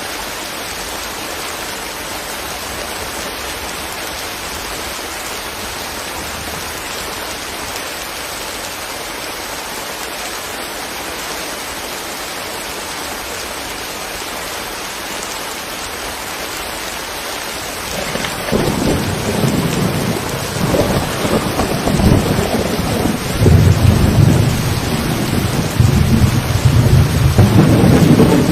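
Steady rain hiss, then about two-thirds of the way in a long rolling rumble of thunder sets in, growing loud and lasting to the end.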